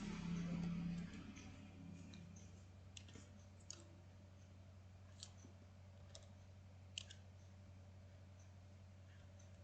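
Single computer mouse clicks, spaced irregularly about a second apart, over a steady low hum. A louder low hum fades out in the first second or so.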